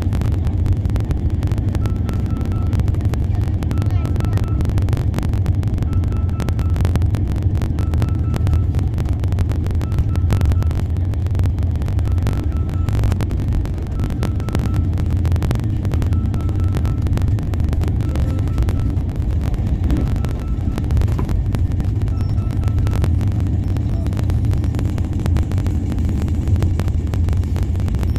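Rajdhani Express passenger train running with a steady low rumble, joined by a faint short high beep that repeats about every two seconds.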